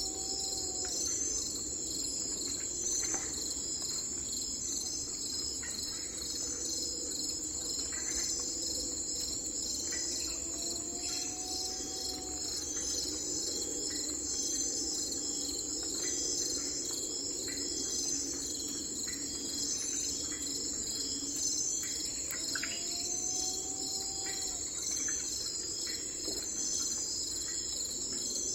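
Steady chorus of crickets, a high pulsing trill that never lets up. Now and then short chirps sound over it, and three times a slower rising call is heard.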